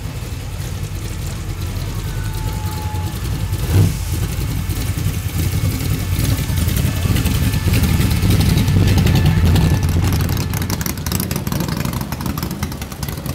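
Engine of a vehicle driving out, rumbling low and growing louder, then easing off near the end. A single sharp knock about four seconds in.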